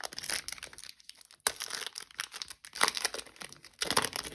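Foil trading-card pack wrapper being torn open and crinkled by hand, in irregular crackles. The pack is a thick one holding a patch card.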